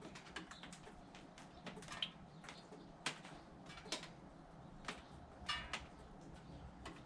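Faint, scattered bird chirps and small clicks over a low steady hum.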